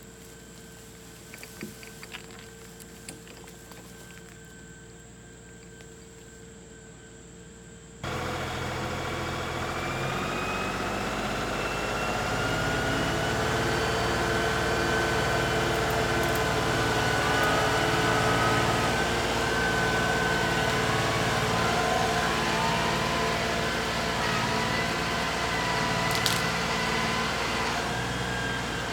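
A quiet stretch with a few light clicks, then, about eight seconds in, an engine suddenly comes in loud and keeps running steadily to the end.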